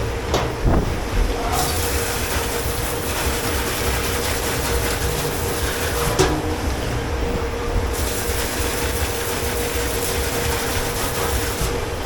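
Dish-pit machinery running with a steady hum and rumble. A hiss of water spray starts and stops twice, with a few sharp clatters of dishes or metal, one about six seconds in.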